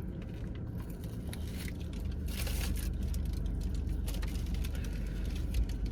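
Paper wrapping crinkling and rustling as a bagel sandwich is handled, with small scrapes and crackles over a steady low hum.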